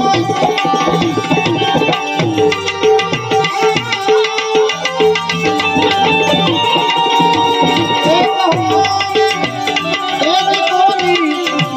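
Instrumental interlude of devotional folk music: tabla playing a steady rhythm under held melodic tones from an accompanying instrument.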